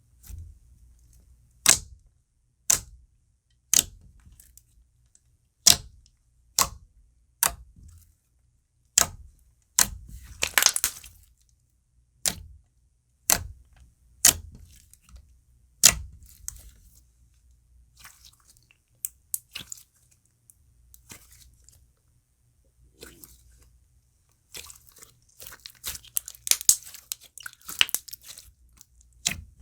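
Thick clear slime being handled and pressed, giving sharp bubble pops about once a second; the pops thin out midway, then come as a dense run of small crackling pops near the end.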